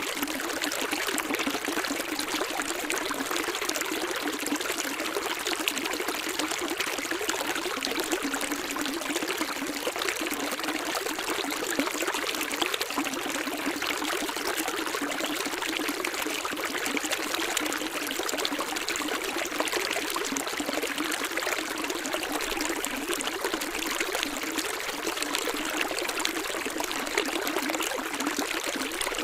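Running water of a small stream, a steady, unchanging splashing rush that is mostly high-pitched with little low rumble.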